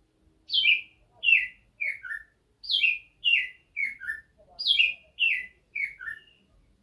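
A bird singing: three repeated phrases, each of three or four quick, downward-slurred chirps.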